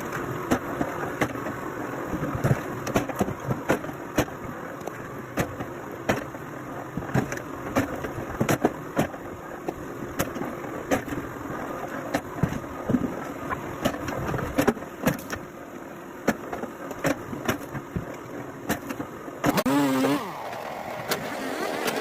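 A machine runs steadily, with frequent sharp knocks and clatter over it. Near the end the sound changes and a short wavering pitched whine is heard.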